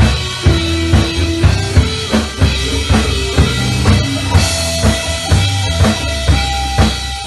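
A band playing live, led by a drum kit keeping a steady beat of about two strong hits a second, with bass and held notes underneath.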